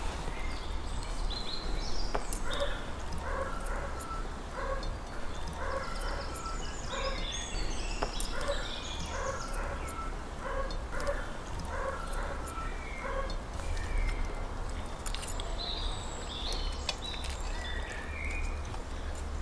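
Birds calling: a short call repeated over and over for about ten seconds, with higher chirps above it. Occasional light clinks of cutlery on plates.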